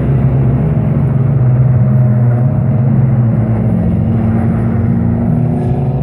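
Race cars' engines running hard at a steady pitch, with an engine note rising near the end as a car accelerates.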